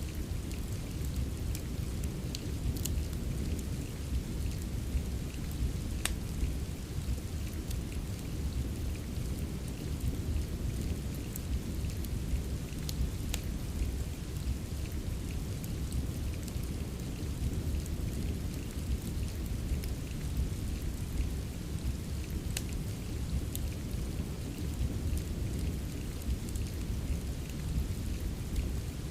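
Steady soft rain with a deep, even rumble, mixed with a wood fire in a fireplace giving an occasional sharp crackle or pop every few seconds.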